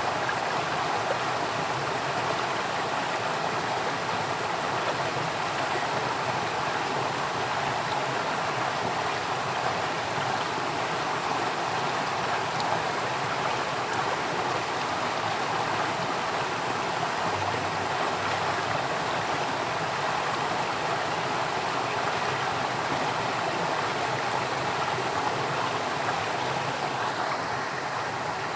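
Flowing water running steadily, a continuous rushing wash like a stream.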